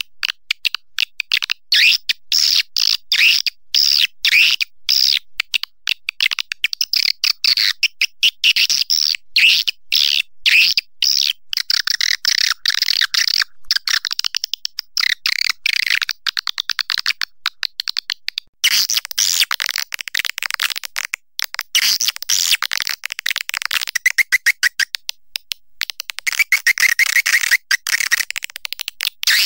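Recorded swiftlet calls, a swiftlet-house lure sound: a dense, continuous stream of rapid high chirps and twitters, chopped by many brief dropouts.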